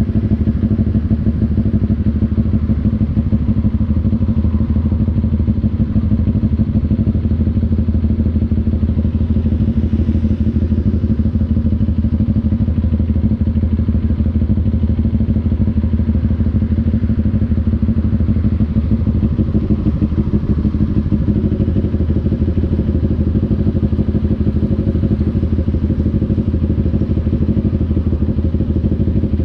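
CF Moto NK400's two-cylinder engine running at steady revs, a dense rapid pulsing that holds the same pitch with no revving.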